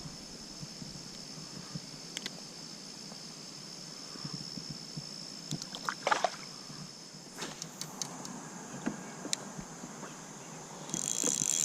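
Kayak on a river: light water lapping and small knocks on the hull under a steady high-pitched whine. Near the end a fishing reel starts a rapid ratcheting whir as a fish is hooked.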